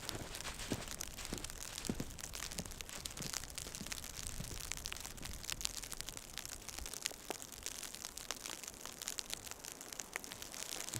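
Footsteps crunching through snow, a step about every two-thirds of a second at first and fainter later, over a steady hiss with many small ticks like snow or sleet hitting.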